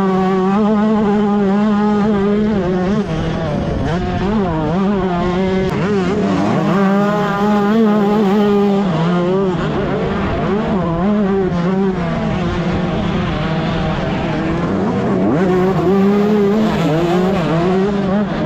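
125cc two-stroke motocross bike engine revving hard, its pitch climbing and dropping back again and again through throttle and gear changes.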